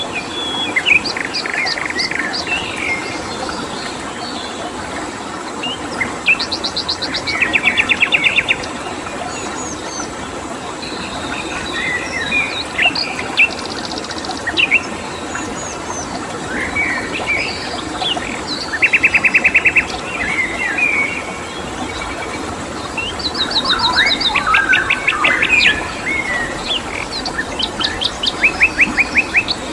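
Several wild birds calling and singing in a forest chorus, with short chirps and quick trills of rapidly repeated notes coming every few seconds. Beneath them runs a steady hiss of flowing water.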